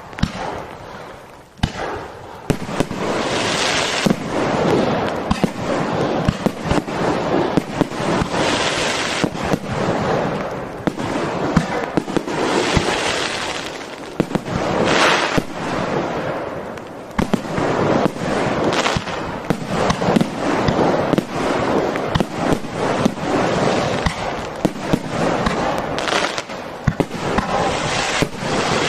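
Fireworks display: a dense barrage of bangs and crackles that starts suddenly and swells and eases in waves every few seconds.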